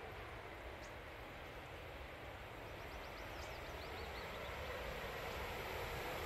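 Freight train hauled by an electric locomotive approaching along the line, a low rumble slowly growing louder. A bird chirps a quick run of high notes in the middle.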